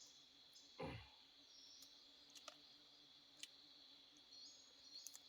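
Faint steady high drone of insects, with scattered small clicks and one soft low thump about a second in.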